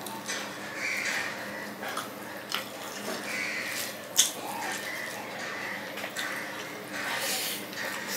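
Close-up wet chewing and lip-smacking of a person eating rice and curry by hand, with fingers squishing rice on the plate. Scattered sharp smacks run through it, the loudest about four seconds in.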